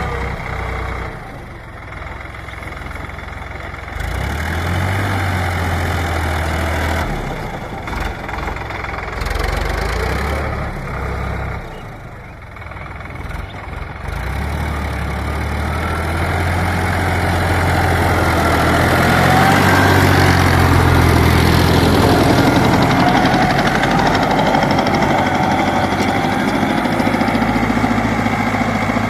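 Sonalika DI 50 RX tractor's diesel engine running, its note shifting and breaking off a few times, then growing louder about halfway through and staying loud.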